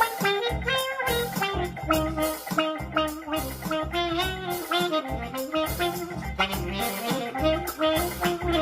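Melodic lead line played through a Q-Tron envelope filter, giving a quacky wah-wah, sax-like tone with pitch bends, over a steady drum beat.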